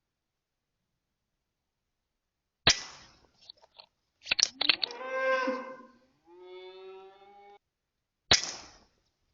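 Two sharp shots from a Weihrauch HW100 .22 air rifle, about five and a half seconds apart, after a few seconds of silence. Between them come a few clicks and a cow mooing twice, the first call bending in pitch and the second steadier.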